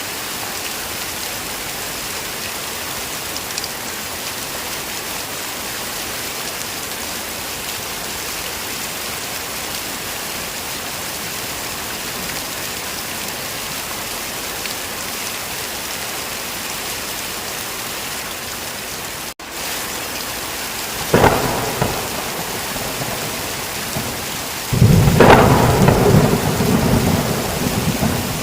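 Steady heavy rain hissing, then thunder. A sharp clap comes about three quarters of the way through, and a loud, low rolling rumble of thunder follows near the end.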